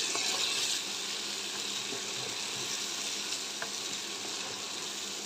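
Boiled chickpeas and potato cubes frying in hot oil in a kadai while being stirred with a wooden spatula: a steady sizzling hiss, a little louder in the first second, with a couple of faint ticks.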